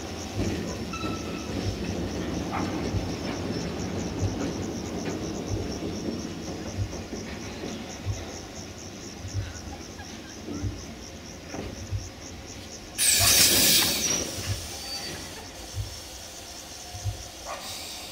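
Empty container flat wagons of a freight train rolling past, their wheels knocking over rail joints in an uneven run of thuds. About thirteen seconds in comes a loud hiss lasting about a second.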